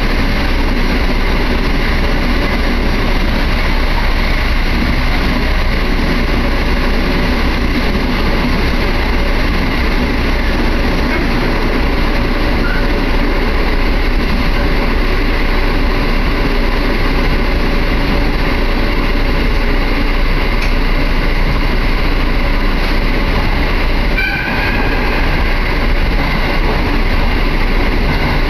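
Running noise of an electric train heard from inside the carriage: a steady rumble with faint whining tones over it. A brief high tone rises about three-quarters of the way through.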